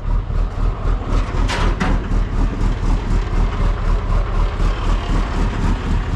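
Flatbed tow truck's engine idling with a steady low throb.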